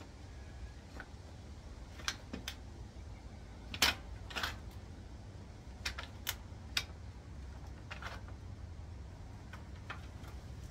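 Scattered light clicks and knocks of tools and transmission parts being handled during a gearbox teardown, about ten in all, the loudest about four seconds in, over a steady low hum.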